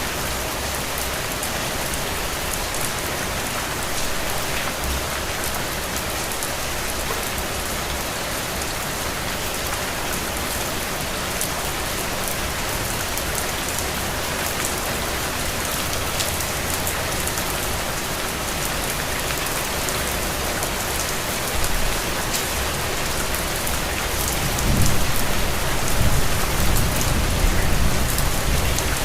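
Steady rain falling: a dense, even hiss of drops. Near the end a louder low rumbling comes in under the rain.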